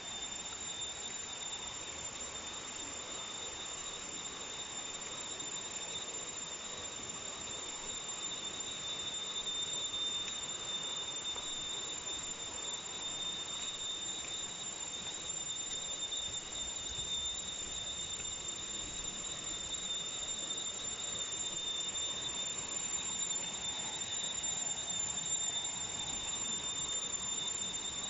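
Steady, shrill insect drone of two constant high tones, over a soft even wash of background noise.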